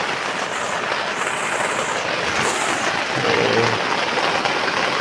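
Heavy rain falling on a tent, heard from inside as a steady dense hiss.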